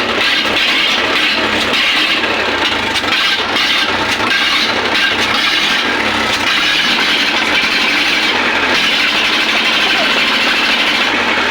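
Mahindra 585 DI tractor's four-cylinder diesel engine running loudly and steadily with its silencer and air cleaner removed, the exhaust coming out raw. The engine has not been started for many days.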